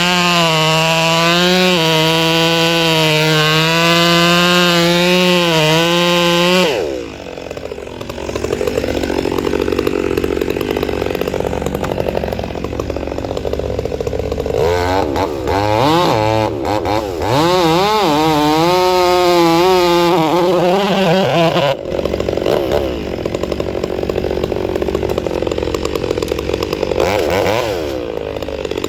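Two-stroke chainsaw run at full throttle, its pitch wavering as it cuts wood. It drops to idle about seven seconds in and goes back to full throttle to cut again from about fifteen to twenty-two seconds. After that it idles, with a short rev near the end.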